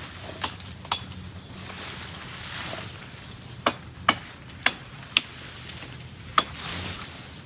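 A series of sharp knocks, about seven at irregular intervals, two close together near the start and a cluster in the middle, each with a short ring.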